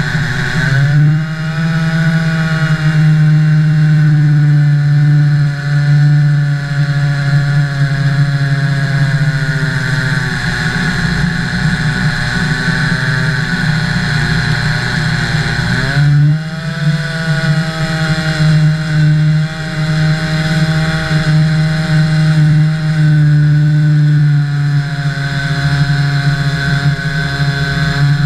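Jonsered 2149 Turbo two-stroke chainsaw running at high revs, ripping a log in a Logosol chainsaw mill. The engine note dips briefly about a second in and again midway, then climbs back.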